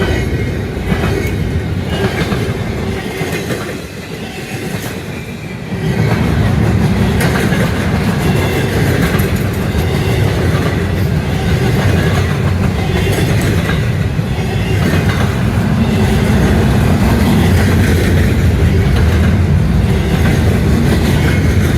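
Freight train of container cars rolling past, wheels clacking over the rail joints with a steady rumble that grows heavier about six seconds in.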